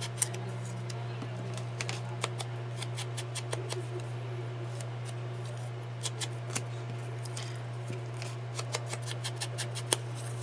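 Paper-crafting handling sounds: irregular sharp clicks and light scrapes of paper and tools being worked by hand, bunched about six seconds in and again near the end, over a steady low hum.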